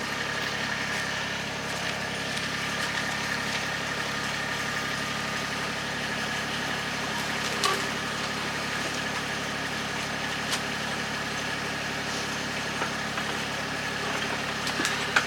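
A vehicle engine running steadily at an even pitch, with a few faint clicks.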